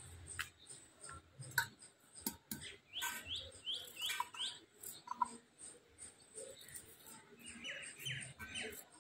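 Birds chirping: a run of four quick downward-sweeping notes about three seconds in and another quick run near the end. A few sharp clicks between the calls, from the knife on the onion.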